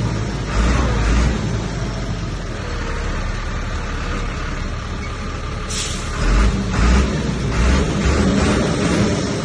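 Heavy diesel engine of earthmoving machinery running under load, surging louder about half a second in and again several times from about six seconds in, with a short hiss at about six seconds.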